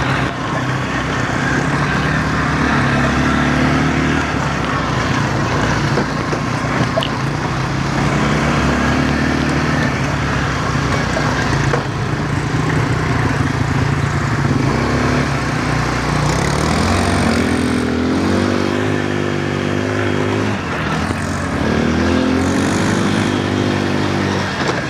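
Quad bike (ATV) engine running under way, its pitch rising and falling several times as the throttle is opened and eased.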